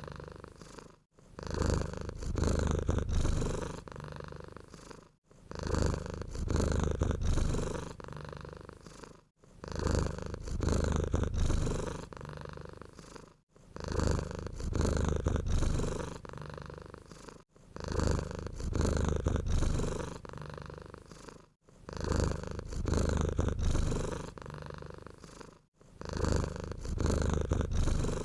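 Domestic cat purring in a low rumble that swells and fades in a cycle about every four seconds, with a brief break between cycles, the same each time.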